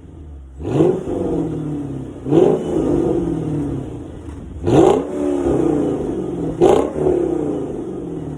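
Mercedes E500's V8 exhaust, fitted with CLS63 mufflers and an X-pipe and no resonator or secondary cats, revved in four quick blips, each rising sharply in pitch and falling back between them.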